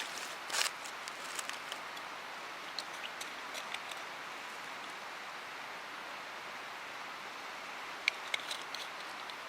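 Steady rush of a mountain stream, with scattered light clicks and a few sharper ticks about eight seconds in.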